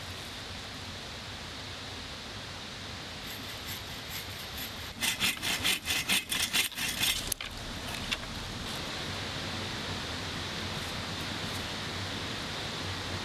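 Hand saw cutting wood: a quick run of about ten rasping strokes over two seconds or so, then it stops abruptly. A steady rush of stream water runs underneath.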